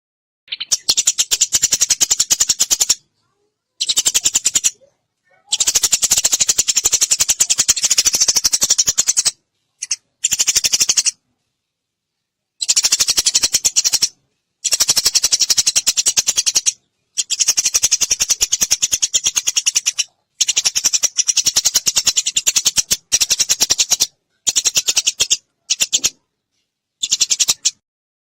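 Eurasian tree sparrows chattering: fast runs of sharp chirps in bursts of one to four seconds, separated by abrupt silent gaps.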